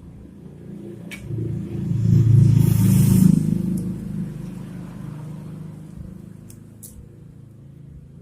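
Ender 3D printer running on test after its mainboard repair: a motor hum of several steady low tones that swells about a second in, is loudest two to three seconds in, then eases back down, with a few sharp clicks.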